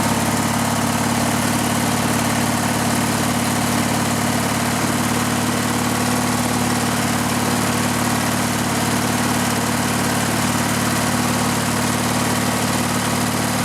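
Riding lawn mower engine running steadily at an even speed, fed from a gas supply that bypasses the tank: it runs this way, so the fault is a clog in the fuel line or gas tank.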